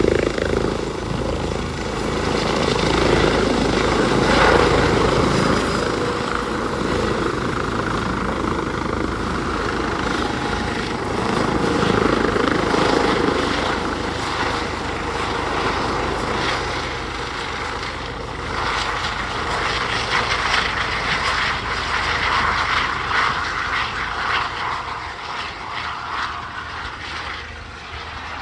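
Helicopter running loud, with the rotor and engine noise swelling and easing, then fading over the last few seconds.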